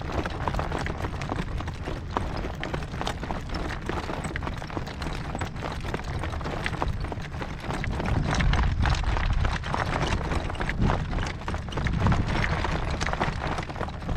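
A driven horse's hooves clip-clopping on a dirt road, with wind rumbling on the microphone that gusts stronger about eight seconds in.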